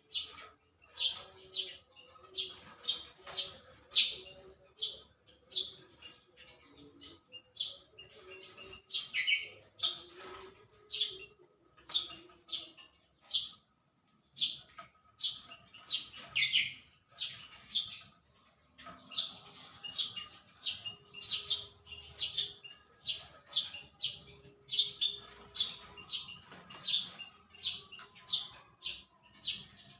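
Small birds chirping: a steady series of short, sharp, high-pitched chirps, about one or two a second.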